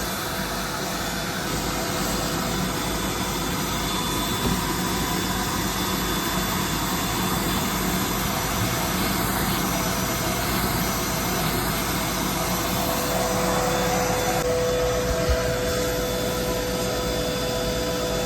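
Vacuum used for dryer vent cleaning, running steadily with a continuous rushing of air. A steady hum grows stronger about 14 seconds in.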